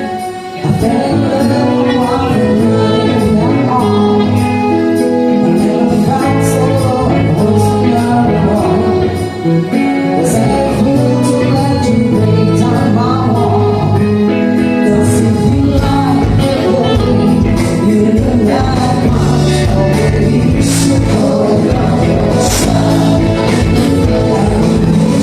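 Live band music with singing, played with a steady beat and cymbal hits throughout. It drops out briefly just after the start and again about nine seconds in.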